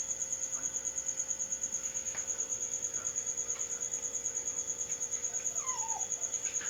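A cricket chirping steadily in rapid, even pulses at a high pitch. A brief falling squeak is heard near the end.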